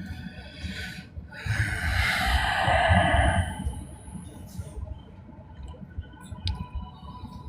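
Low rumble of a moving train, with a loud rushing whoosh that swells and fades over about two seconds early on.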